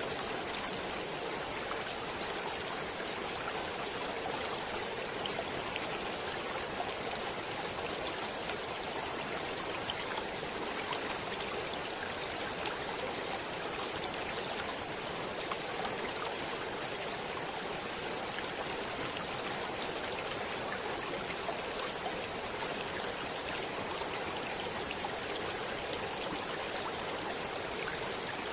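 Stream water running: a steady, even rush with fine splashing and no change throughout.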